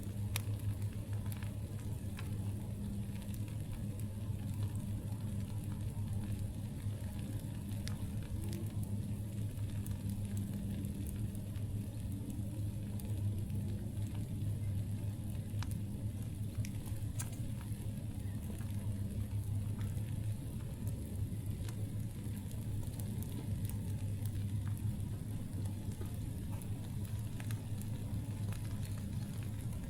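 Wood campfire crackling, with scattered sharp pops and snaps throughout, over a steady low hum.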